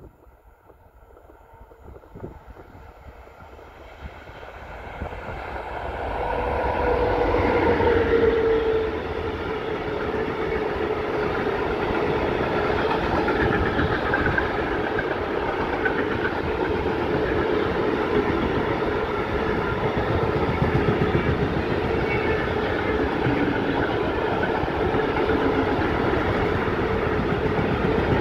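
Container freight train hauled by a 3E/1 electric locomotive passing on the main line. It grows louder over about the first eight seconds as it draws near, then runs on steadily with the rhythmic clickety-clack of the container wagons rolling over the rails.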